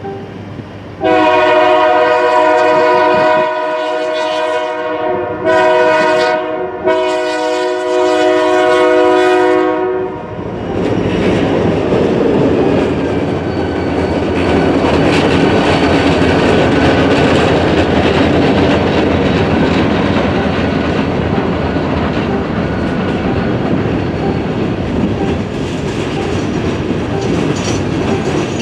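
Herzog work train passing a grade crossing. Its locomotive horn sounds a multi-note chord in several blasts for the crossing from about a second in to about ten seconds in. Then comes the steady wheel noise and clickety-clack of its long string of flat cars rolling past.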